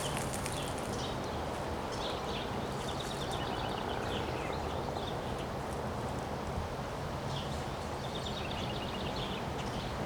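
Steady wind blowing outdoors, with two short runs of rapid, high chirping from a bird, one in the first half and one near the end.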